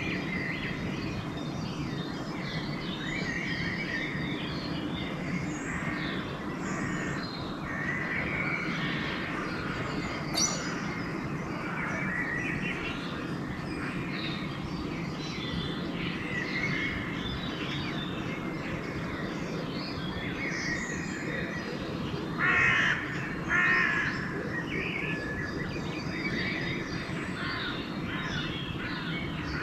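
Dawn chorus of many songbirds singing and chirping, with a crow giving two loud harsh caws about three quarters of the way through. A steady low rumble runs underneath.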